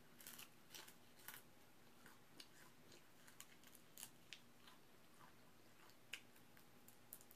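Faint eating sounds of fried chicken: small irregular crunches, mouth clicks and smacks as bits of crispy chicken are bitten and chewed.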